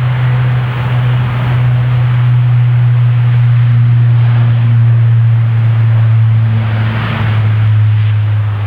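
Airbus A400M's turboprop engines running loud and steady: a constant low propeller drone over a rushing roar of engine and air noise.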